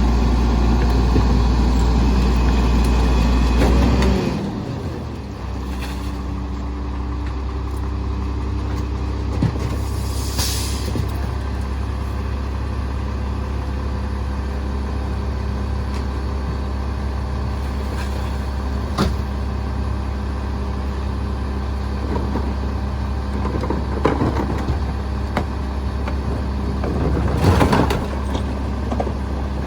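Garbage truck's diesel engine running hard, then dropping back to a steady idle about four seconds in. A short hiss of air comes around ten seconds in, and a few knocks and clunks follow, the loudest near the end.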